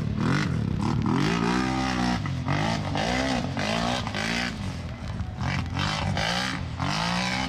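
Several ATV engines racing, revving up and backing off over and over, their pitch rising and falling about once a second with more than one engine heard at once.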